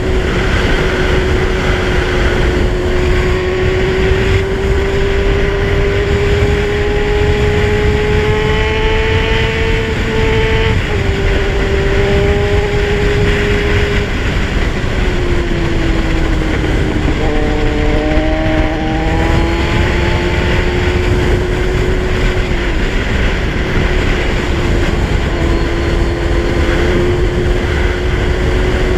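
Kawasaki Z1000's inline-four engine running at steady riding speed, its pitch drifting up and down with the throttle, with a sudden drop about eleven seconds in and a slow fall and rise a few seconds later. Heavy wind rush on the microphone runs underneath.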